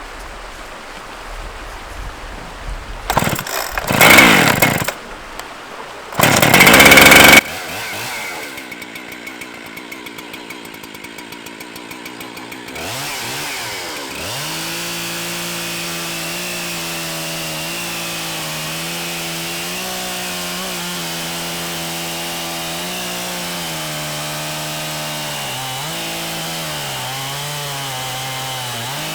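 Large chainsaw being started. Two very loud bursts as it fires and revs, then a quieter stretch, then it runs steadily at high speed, its pitch rising and falling slightly near the end.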